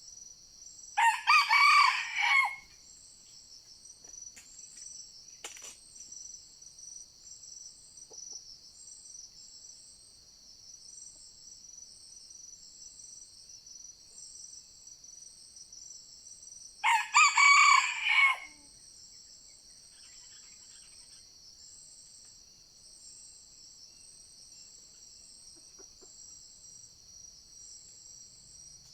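A junglefowl rooster crows twice, about a second in and again about 17 seconds in, each crow about a second and a half long. Insects keep up a steady high drone throughout, with a short chirp repeating about once a second.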